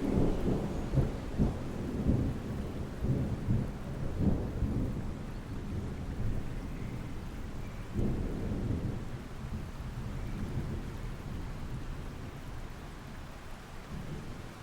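Thunder rumbling and crackling over steady rain. A second roll comes about eight seconds in, and it dies away near the end.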